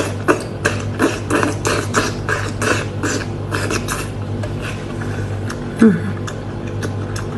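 Seafood noodles being slurped up in quick, sharp sucks, about four or five a second, for the first four seconds, then softer mouth sounds.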